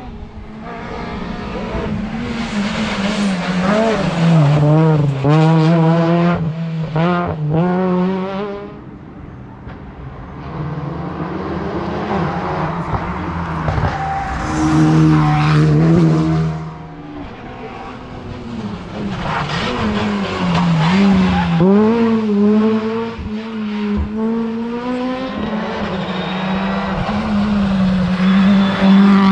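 Modern rally cars at full attack, engines revving hard through quick gear changes, pitch climbing and dropping as each passes. It gets louder and quieter in waves, dipping about nine seconds in and again past the halfway point before the next car comes through.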